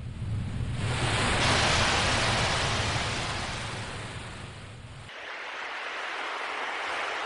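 Ocean waves washing in: a broad rush that swells to a peak about two seconds in, eases off, and swells again near the end, over a low rumble that cuts off abruptly about five seconds in.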